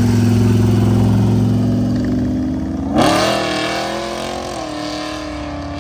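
A car engine runs steadily at low revs, then about three seconds in it revs up sharply as the car accelerates. The pitch climbs and then holds, easing slightly.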